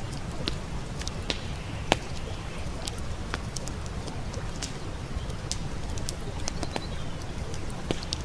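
Wood campfire crackling, with irregular sharp pops and snaps, the loudest about two seconds in, over a steady low rushing.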